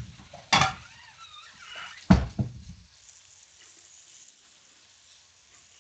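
Two sharp knocks of cookware or utensils, about half a second and two seconds in, the second the louder, over the faint sizzle of breaded chicken frying in oil.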